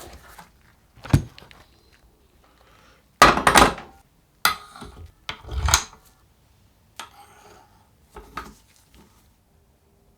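Parts and tools being handled on a workbench: a string of separate clinks and knocks, the loudest a pair of clatters a little over three seconds in and another about halfway, dying away near the end.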